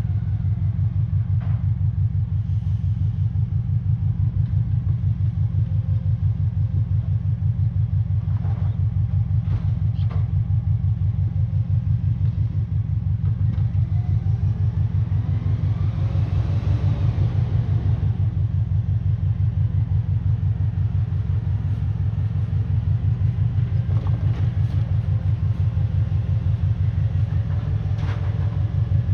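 Large diesel engine of a garbage truck running steadily with an even low throb. Around the middle, a whining tone rises and then falls, and a few short knocks are heard.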